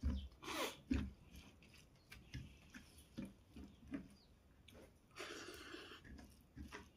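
Close-up eating sounds: irregular chewing and mouth clicks with soft crunches, and a short rushing noise lasting about a second a little after five seconds in.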